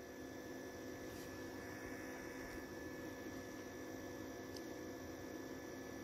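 Faint steady electrical hum made of a few constant tones, with no other distinct sound.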